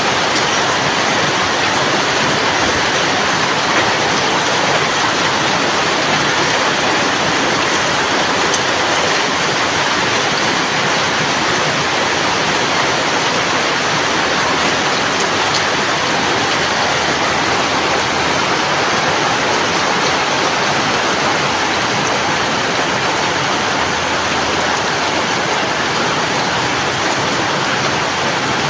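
Steady rain, a dense even hiss without a break.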